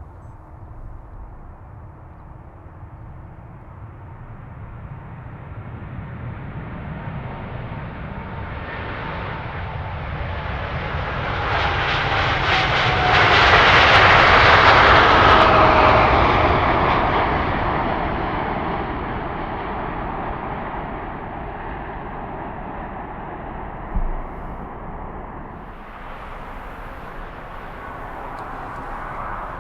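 KLM Boeing 787-10's GEnx jet engines passing by: a swelling jet rumble peaking about halfway, with a whine that drops in pitch as the airliner goes past, then fading away. Near the end a different aircraft's engine noise takes over.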